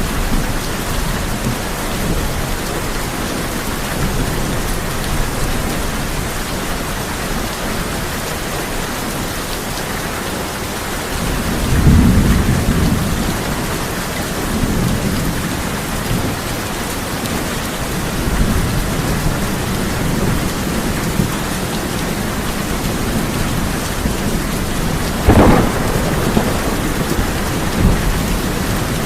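Steady heavy rain on a tin roof, with thunder: a low rumble swells about twelve seconds in, and a sharp crack of thunder comes a few seconds before the end, with fainter rumbles in between.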